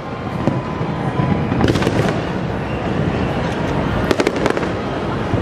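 Fireworks bursting in quick crackling volleys, two tight clusters of sharp cracks about two and a half seconds apart, over a continuous rumbling wash of bangs and echo.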